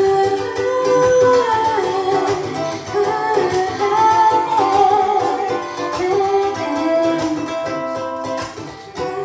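Live music: a singer with a plucked acoustic string instrument accompanying, the melody wavering through held notes.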